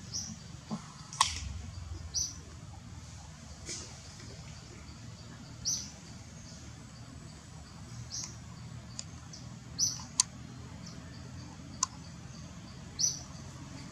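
A bird giving a short high chirp about every two to three seconds, six times in all, with a few sharp clicks between, over a steady low rumble of forest background.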